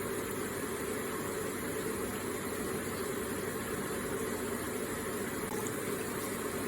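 Electric water feature running: water trickling and splashing steadily and evenly.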